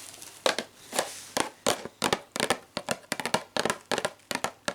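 Packaging being opened by hand: an irregular run of sharp crackles and clicks, several a second.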